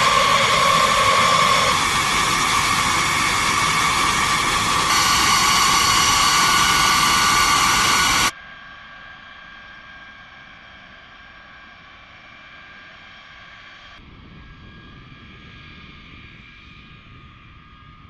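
Jet engines of a B-52H Stratofortress, its eight TF33 turbofans, running loud with a steady high whine. About eight seconds in the sound cuts off suddenly to a much quieter, more distant engine whine.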